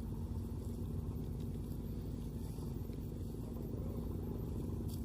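Combine harvester's engine running steadily, a constant low drone.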